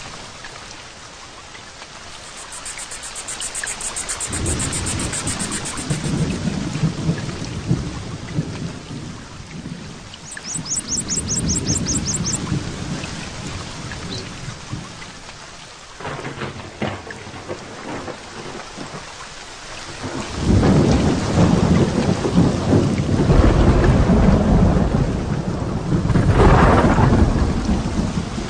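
Heavy rain falling steadily through a thunderstorm. Thunder rolls rumble in twice, the second and loudest starting about two-thirds of the way in and carrying on. A short high chirping trill sounds twice in the first half.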